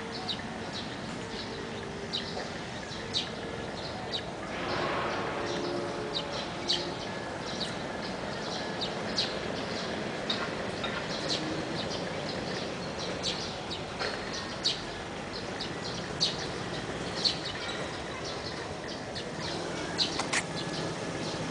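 Small birds chirping in short, scattered high-pitched calls, several every few seconds, over a steady outdoor background hiss.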